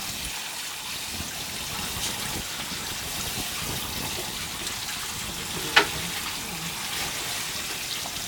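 Steady rush of running water, with a single sharp click about six seconds in.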